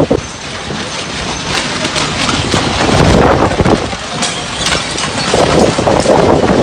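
Strong storm wind gusting over the microphone. It swells about three seconds in and again near the end.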